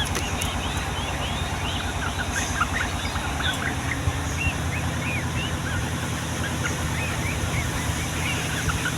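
Yellow-vented bulbuls singing, with a rapid run of short chirping and bubbling notes, over a steady low rumble.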